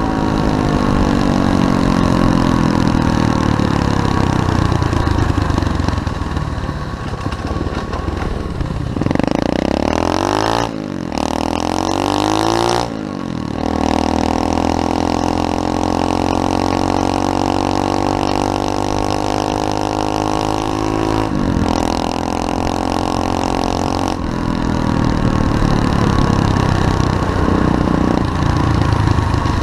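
SSR 125cc pit bike single-cylinder engine revving hard, its pitch climbing and dropping again and again as the bike is ridden and shifted. Between about nine and thirteen seconds in, two engine notes cross, one falling and one rising.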